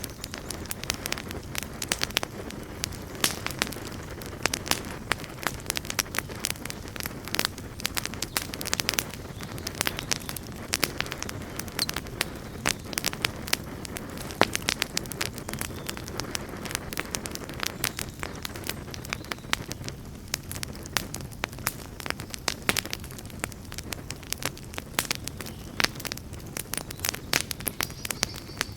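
Campfire burning with dense, irregular crackles and pops from the wood, over a steady low rush of the flames.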